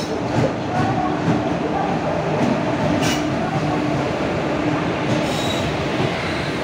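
Indian Railways WAG-5HA electric locomotive and its passenger coaches rolling past along the platform: a steady rumble of wheels on rail with a faint hum, and a sharp click about three seconds in.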